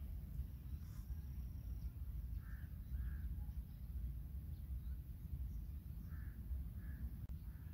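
A bird calling in the distance: short calls in two pairs, each pair about half a second apart, over a steady low rumble.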